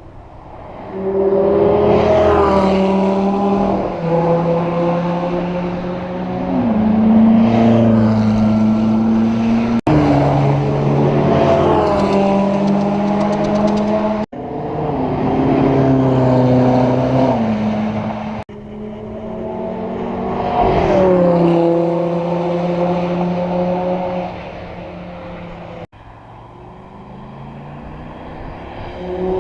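Loud sports car engines revving and accelerating past, the engine note rising and falling. The sound is a series of short clips joined by abrupt cuts.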